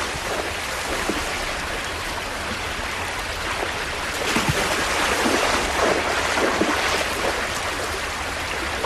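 Rushing water of a salmon stream, with a run of splashes about halfway through.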